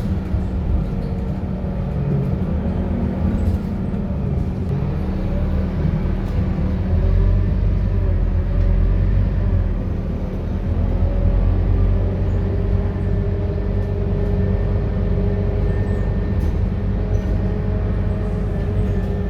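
Scania K230UB city bus's five-cylinder diesel engine running under way: a steady low rumble with faint whining tones that drift slightly up in pitch, a little louder partway through.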